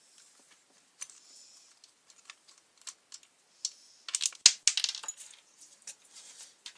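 Small metal clicks and clinks of bolts and hand tools being handled while the strimmer's casing is unbolted, with a quick rattling clatter about four seconds in.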